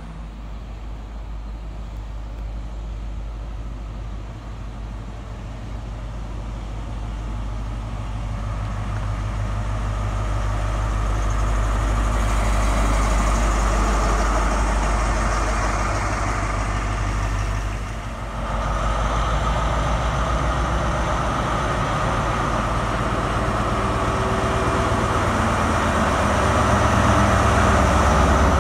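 Diesel train's engine running with a low rumble that grows steadily louder, with a brief dip about eighteen seconds in.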